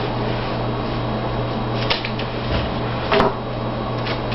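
Playing cards being handled and set down on a table, with two sharp taps about two seconds in and just past three seconds, over a steady electrical hum and hiss.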